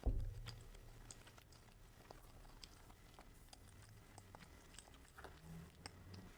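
A person chewing fast food, with scattered small mouth clicks. There is a low thump right at the start.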